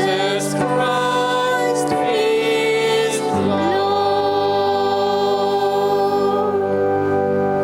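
Voices singing a Christian hymn, ending on one long held chord from about three and a half seconds in.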